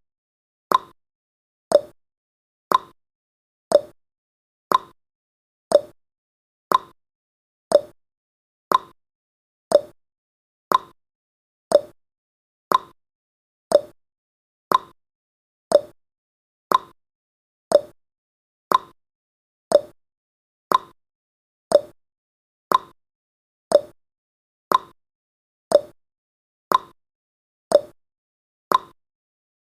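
Countdown timer's tick sound effect: one short, sharp tick every second, evenly spaced, with silence in between.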